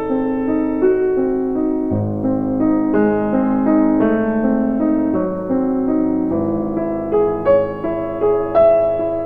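Background music: a gentle piano melody, note after note with sustained chords underneath.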